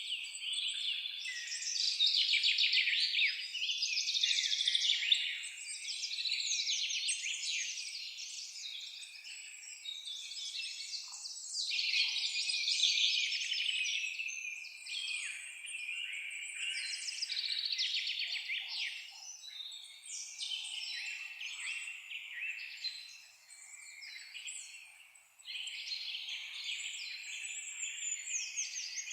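A dense chorus of small songbirds chirping and singing over one another without pause, with rapid high trills and short sweeping notes. The chorus swells and eases several times.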